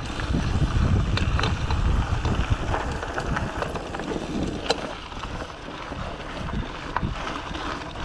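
Riding a bicycle: wind buffeting the action camera's microphone in a low rumble, with tyre noise and scattered clicks and rattles from the bike.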